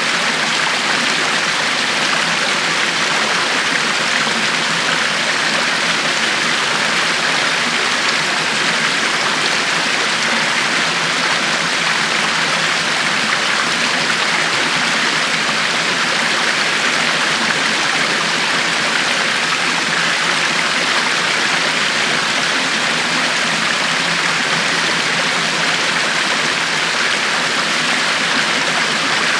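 River water flowing steadily over stones, an even rushing with no breaks or changes.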